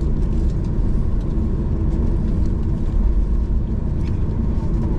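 Steady low rumble inside a jet airliner's cabin as the plane rolls on the ground just after landing.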